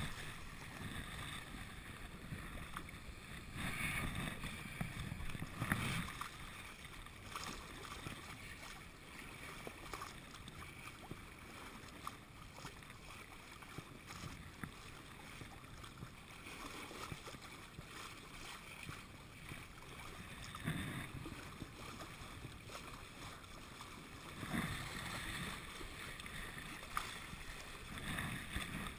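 Water washing along a sailboat's hull, with wind on the camera microphone; the wash swells louder now and then.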